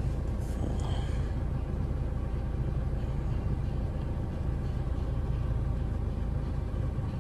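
Ford Fiesta diesel engine idling steadily, heard from inside the cabin as a low, even hum. It runs smoothly, with no misfire, on freshly replaced injectors.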